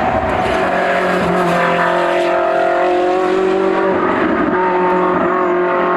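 Hill-climb race car engine running hard at high revs, its note holding mostly steady.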